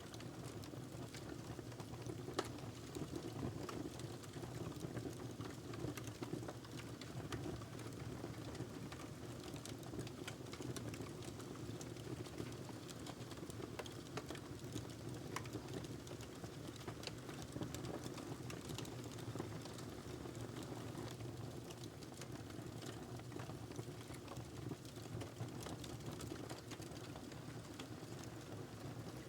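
Wood fire burning in a fireplace: a steady low rush of flames with frequent small, irregular crackles and pops from the burning log.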